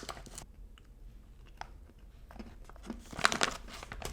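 A person biting into and chewing a chewy chocolate chip cookie close to the microphone, with a loud burst of crunching about three seconds in.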